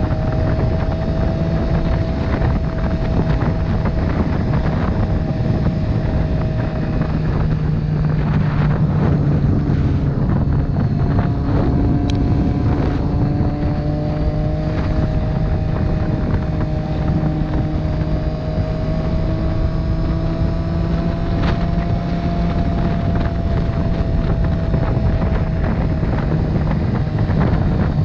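Motorcycle engine running steadily at cruising speed, its note drifting gently up and down, with wind rushing over the microphone.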